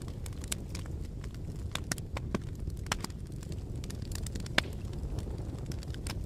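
Fire crackling: irregular sharp pops and snaps over a steady low rumble of burning, with one louder pop about halfway through.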